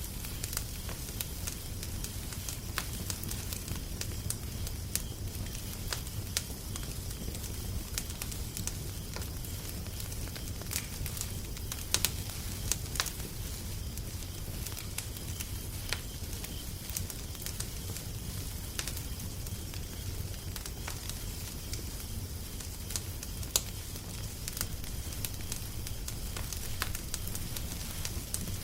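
Crackling fire with frequent, irregular sharp pops over a steady low rumble.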